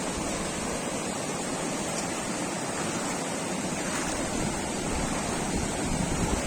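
Steady rushing water noise from heavy rain or a swollen river, even and without separate strokes, with a low rumble from wind on the microphone building near the end.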